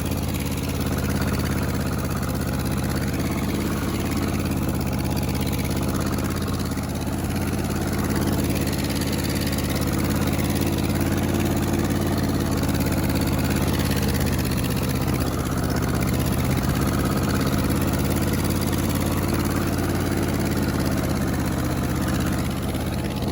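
1947 Ford 8N tractor's four-cylinder flathead engine running steadily under load while a rear tire spins on pavement in a burnout.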